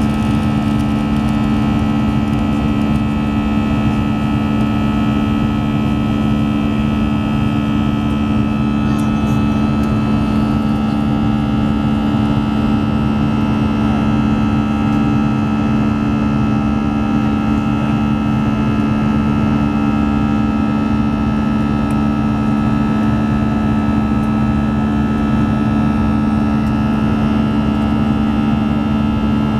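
Airbus A320 cabin noise with the engines running: a steady, loud hum with a couple of strong low tones and fainter higher whines over a broad rush, unchanging throughout.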